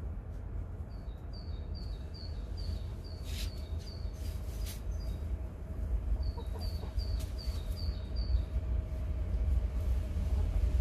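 A small bird singing a repeated two-note phrase, a higher note then a lower one, about three times a second in two runs separated by a short pause, over a steady low rumble. Two short scratchy clicks come about halfway through the first run.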